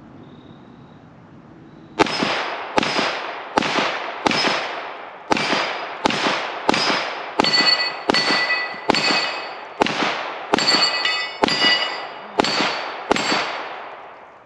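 A pistol fired about sixteen times at a steady pace, roughly one shot every 0.7 s, starting about two seconds in. Each shot has a long echoing tail. From the middle of the string, metal targets ring after the hits.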